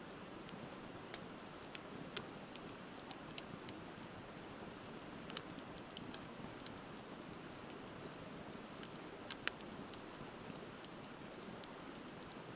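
Wood fire crackling with irregular sharp pops, two louder snaps about two seconds in and near the end, over the steady rush of river water.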